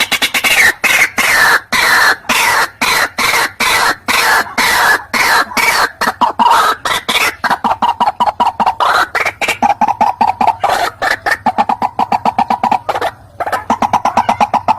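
White-breasted waterhen (ruak-ruak) calling: a long, loud run of rapid harsh notes, several a second, in phrases that fall in pitch and later hold steadier. It is a call recording meant to lure the bird in.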